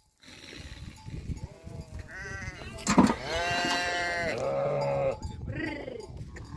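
Small livestock bleating: several long, wavering bleats one after another, loudest in the middle, with a sharp knock about three seconds in.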